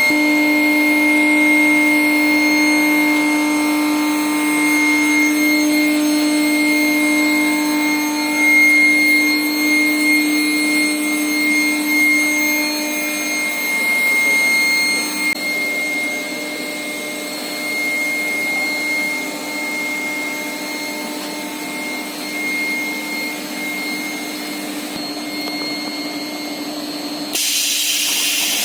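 Steel pipe induction heating furnace running: a steady electrical hum and whine, several steady tones over machine noise. The strongest low tone fades out about halfway through, and a sudden louder hiss starts just before the end.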